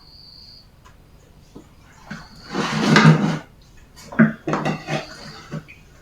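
Dishes and cutlery clattering, with a louder rattle about two and a half seconds in and a run of sharp knocks a second later.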